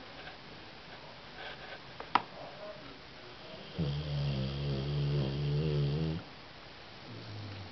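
Cane Corso snoring: one long, low snore of over two seconds starts about four seconds in, and a shorter, fainter one follows near the end. A single sharp click comes about two seconds in.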